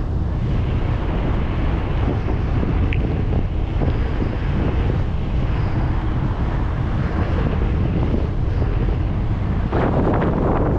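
Wind buffeting the microphone of a camera riding on a moving bicycle: a steady low rumble, with a louder rush shortly before the end and a brief high chirp about three seconds in.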